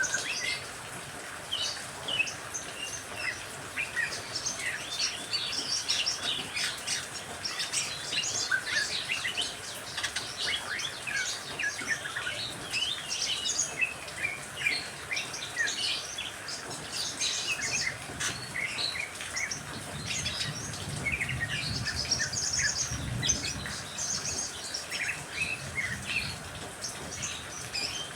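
Many small birds chirping and calling at once in a busy, overlapping chorus of short, quick notes, over a steady hiss of rain.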